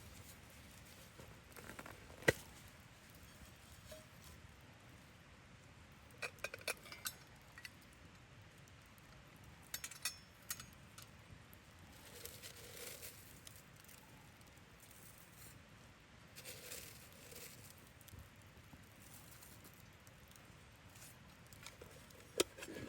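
Scattered light clinks and taps of small camp gear being handled: a sharp tap about two seconds in, a quick cluster of clinks around six to seven seconds, more around ten seconds, softer knocks later and another sharp tap near the end, over a faint steady rush.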